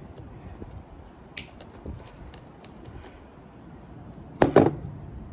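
Light clicks and scrapes of hand work on a refrigerator compressor's motor windings, with a loud double knock of a part or tool striking the bench about four and a half seconds in.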